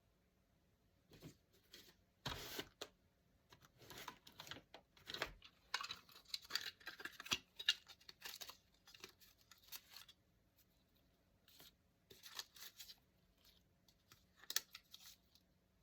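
Paper being handled and torn in short, irregular bouts, with a longer run of tearing and crinkling a few seconds in and a sharp tap near the end.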